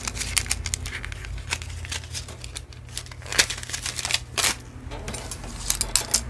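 Costume jewelry being handled: irregular crinkling of plastic packaging with sharp little clicks and rattles as pieces are picked up and set down, louder rustles about a second in and again around three and a half and four and a half seconds.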